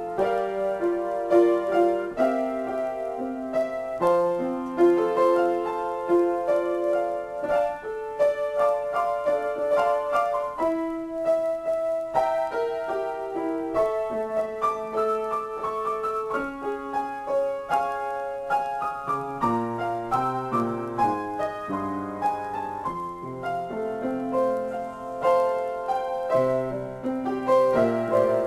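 Solo piano playing sustained chords under a melody line, with lower bass notes coming in more strongly about two-thirds of the way through.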